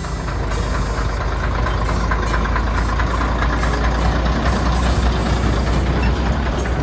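Diesel engine of a narrow-gauge heritage train running steadily with a deep, even rumble.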